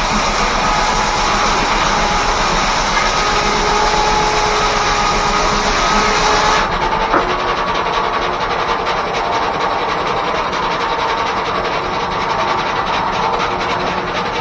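1880s R.R. Howell left-hand sawmill, driven by a steam engine, running loud and steady with the saw cutting wood. About six and a half seconds in, the hissing top of the sound drops away suddenly and a single knock follows, then the mill runs on.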